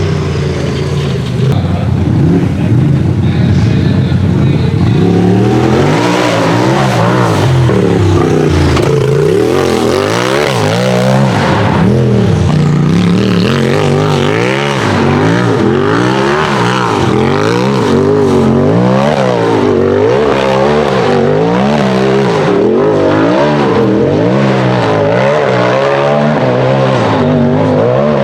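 UTV race engine on a hill climb, running steadily at first, then revving up and down over and over, about once a second, as the throttle is worked in short bursts.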